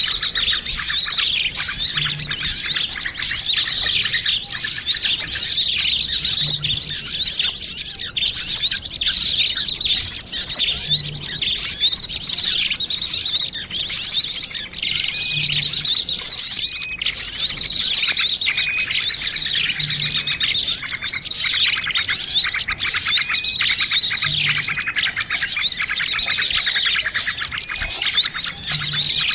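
Dense, noisy chorus of many small birds chirping and twittering rapidly and continuously, a mixed bird-lure call recording made to draw small birds in.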